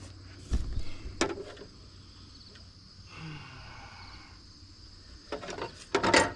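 Several clicks and knocks of hand tools and parts being handled on a tractor: a dull thump about half a second in, a sharp click a moment later, and a cluster of clicks near the end. Under them, crickets chirr steadily and high-pitched.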